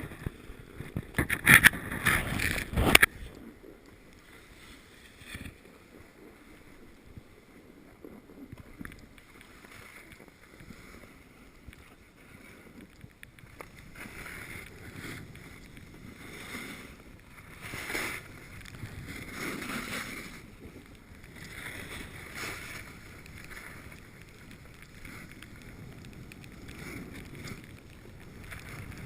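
A few loud sharp knocks in the first seconds, then a snowboard's edge scraping and hissing across packed snow, swelling and fading every couple of seconds as the rider turns, with wind on the microphone.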